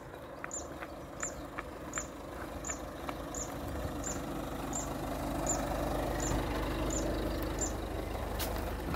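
A car engine running, its low rumble growing louder from about four seconds in. Over it, a short high chirp repeats evenly about twice a second and stops near the end.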